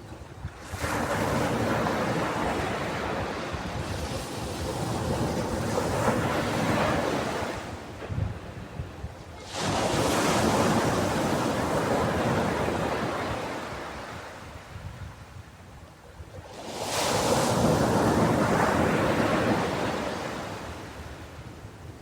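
Ocean waves breaking and washing up a beach, three long swells about eight seconds apart, each surging in and slowly fading as it draws back.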